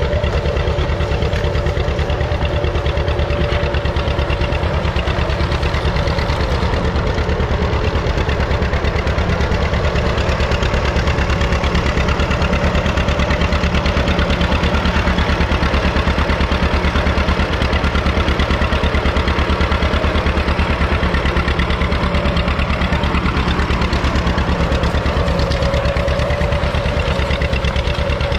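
Tractor engine running steadily, a fast even chug of firing pulses with a steady whine above it.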